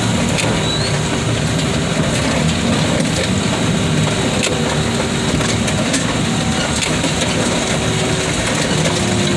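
Car crusher at work flattening a car body: its engine runs steadily under load, with scattered sharp cracks and pops of the metal giving way.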